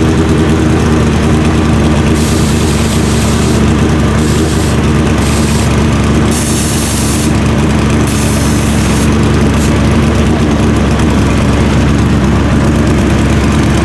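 Drag racing motorcycle engines idling steadily, with short bursts of hissing noise coming and going through the middle.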